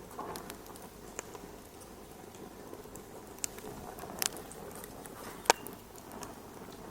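Wood fire in a fireplace crackling: scattered sharp pops and snaps over a soft, steady hiss. The loudest pop comes about five and a half seconds in.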